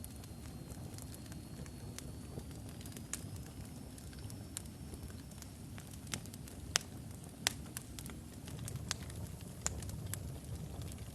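Wood fire in a fireplace burning with a low steady rumble and irregular sharp crackles and pops from the logs, two of them louder about seven seconds in.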